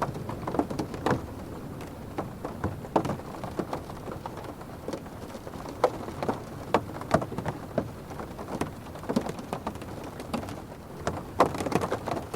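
Rain striking a car's roof and windows, heard from inside the cabin: irregular drops tapping, some much louder than others, over a steady low rumble.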